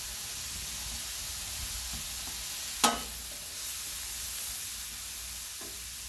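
Chopped onions, mushrooms, small shrimp and scallops sizzling steadily on a hot 22-inch Blackstone flat-top griddle. A metal spatula working the pile gives a single sharp clack on the griddle plate about three seconds in.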